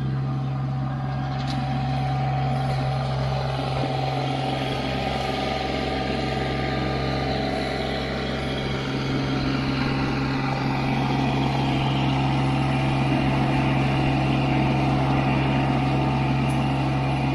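A vehicle engine running at a steady speed, a constant low hum with no revving, getting slightly louder about halfway through.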